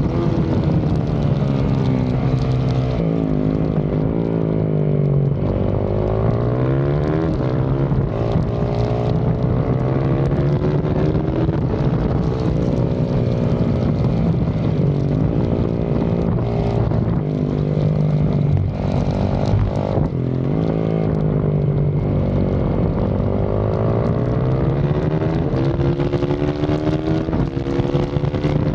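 Yamaha YZ450FX's single-cylinder four-stroke engine under hard riding, heard close up from low on the bike: its pitch climbs again and again under acceleration and drops back for gear changes and braking into corners.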